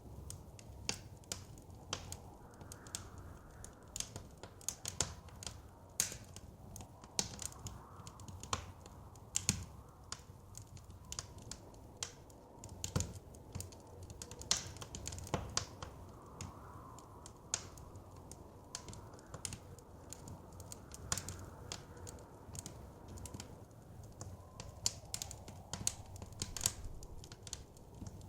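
Wood fire crackling: irregular sharp snaps, several a second, over a steady low rumble, with soft wind swelling and fading in the background.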